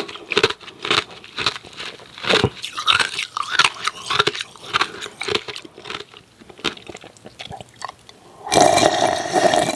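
Close-miked biting and chewing of hard, freezer-frosted ice cubes: a run of sharp, irregular crunches, with a louder, denser stretch lasting about a second near the end.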